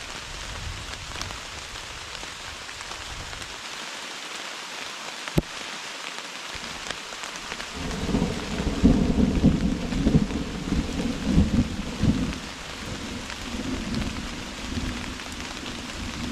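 Steady heavy rain, with one sharp tap about five seconds in. A roll of thunder rumbles in at about eight seconds, is loudest for the next few seconds, then stays lower.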